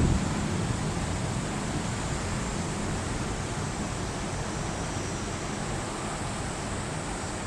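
Heavy rain in a sudden torrential downpour, a steady rushing hiss.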